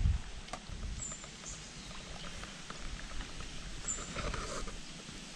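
Quiet outdoor lakeside background with a few faint, short, high chirps of small birds, and a soft rustling noise about four seconds in.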